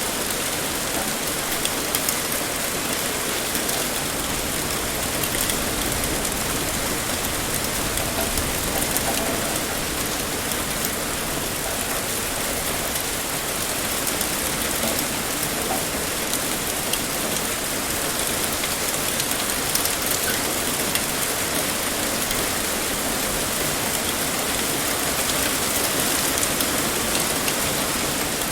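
Heavy rain pouring steadily, a dense even hiss of drops on surfaces with fine patter throughout.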